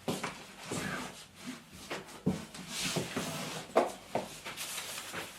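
Handling sounds as things are packed into a bag: scattered light knocks and rustling.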